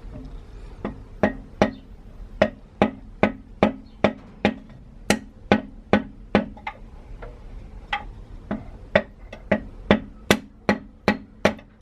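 Steady, evenly paced hammer blows, about two to three strikes a second, each a sharp knock with a short ring, during the teardown of an International DT466E diesel engine.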